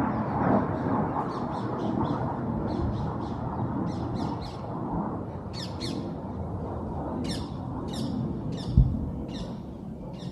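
A bird calling in a steady series of short, harsh squawks, about two a second, over a low rumble that slowly fades: the tail of distant air-defence interception blasts. A single dull thump near the end.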